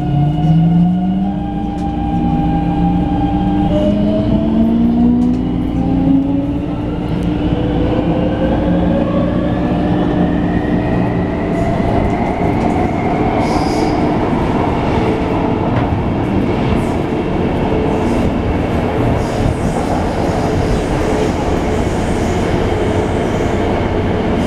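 Electric train pulling away: its traction motors whine in several rising tones that climb together over the first seven seconds or so. The whine then gives way to steady running noise of wheels on rail with light clicks.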